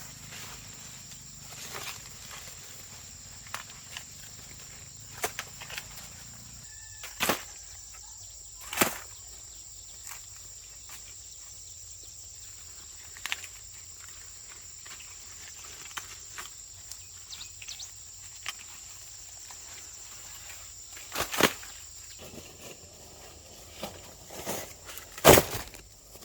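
Dry maize stalks and leaves rustling and crackling as ears of corn are snapped off by hand, with several sharp cracks, the loudest near the end. A steady high-pitched insect drone runs underneath.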